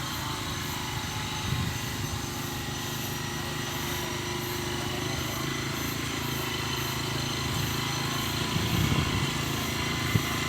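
A small engine running steadily, with a sharp click near the end.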